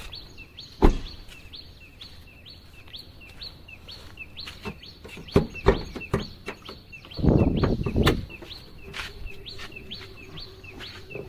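A small bird chirping over and over, about twice a second, under a few sharp knocks and clunks and a brief rustle from the car's bonnet being released and handled.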